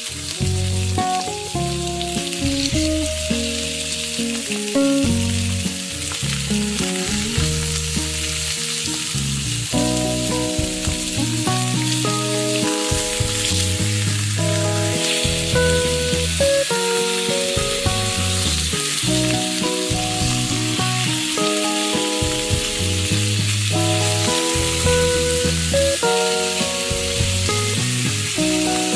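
Salmon steaks sizzling steadily as they fry in a pan, with background music of held notes that change every second or so underneath.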